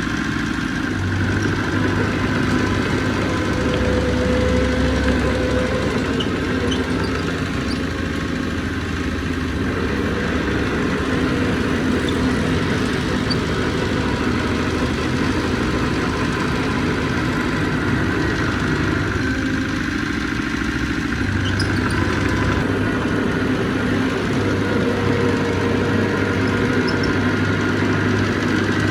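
Diesel engine of heavy earthmoving equipment running steadily, its low end swelling a little twice as it works.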